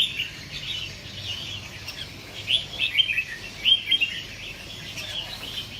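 Red-whiskered bulbul singing, a series of short, quick chirpy phrases with pauses between them.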